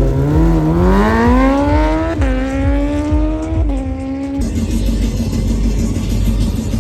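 A vehicle engine revving hard and climbing steadily in pitch, with two sudden jumps higher partway through. It then gives way abruptly to a steadier, noisier drone.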